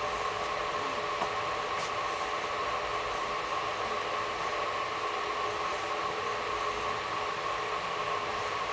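Steady hiss and hum inside an air-conditioned railway coach as the train runs, with a constant whine held throughout.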